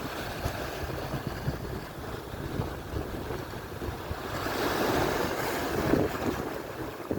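Atlantic surf washing on the shore, with wind buffeting the microphone. A wave swells up and breaks about four to six seconds in.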